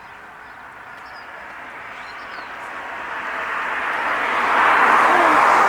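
A passing vehicle on the road, its engine and tyre noise swelling steadily louder over about four seconds and then holding. Faint bird chirps sound above it.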